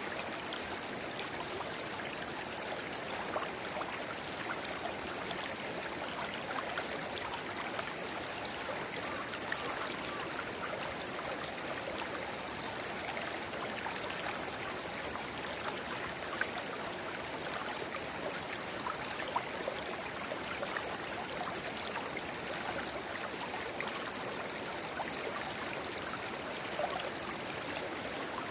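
A shallow river babbling steadily, with a small spring-fed stream trickling into it. Small splashes and plinks flicker through the even rush of the water.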